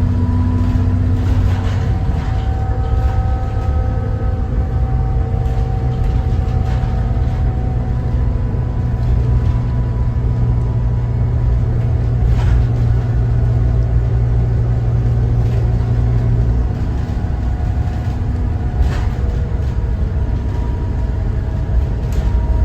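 Cummins ISB 6.7 diesel engine of a 2014 Thomas Saf-T-Liner C2 school bus running while the bus drives. Its low drone steps up in pitch about four seconds in and falls back about sixteen seconds in. A few short rattles or knocks come through over it.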